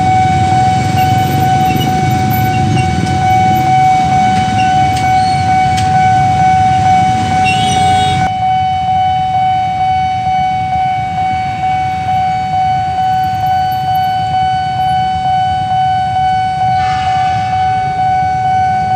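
Railway level-crossing warning alarm sounding one steady high electronic tone, over the low rumble of a train passing the crossing. The rumble pulses regularly, a little over once a second, from about 8 seconds in.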